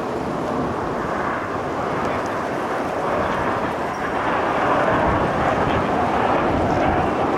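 Jet noise from the Frecce Tricolori's Aermacchi MB-339 PAN jets flying overhead: a steady rushing engine sound that grows louder about halfway through.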